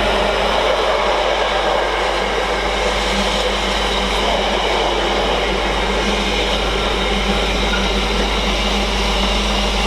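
A freight train hauled by a Class 66 diesel locomotive passing close by: a steady noise of wheels and wagons on the rails, with a low steady hum.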